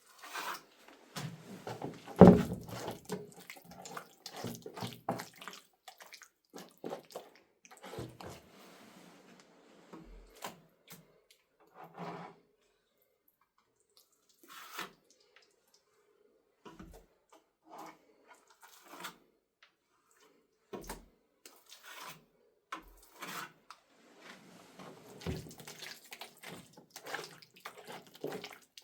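Water splashing and sloshing in irregular bouts, with scattered knocks and scrapes and quiet pauses between them; one heavy knock about two seconds in.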